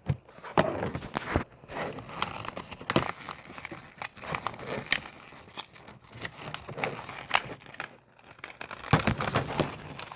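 Stiff plastic blister packaging crinkling and crackling in irregular sharp clicks as it is cut with a razor blade and worked open by hand.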